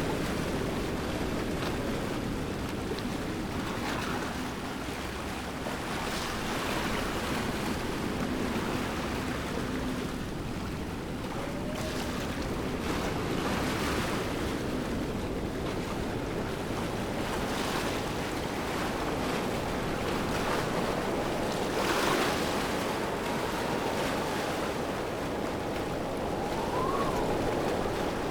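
Waterfall: a steady rush of falling water that swells and eases slightly.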